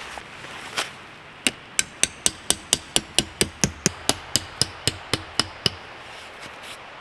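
A metal tent stake being hammered into the ground: a quick, even run of about eighteen strikes at roughly four a second, each with a short metallic ring, stopping about two thirds of the way through.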